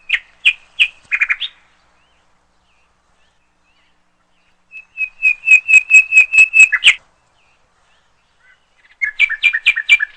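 A bird singing three phrases of rapid, repeated sharp whistled notes, each with about five notes a second, separated by pauses of a few seconds.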